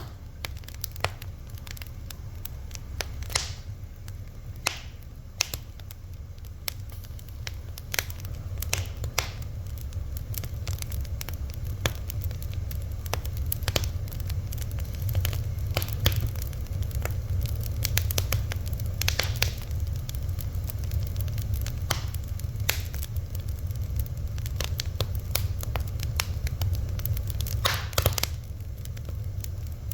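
Wood fire burning with irregular sharp crackles and pops over a steady low rumble of flames, with a quick cluster of pops near the end.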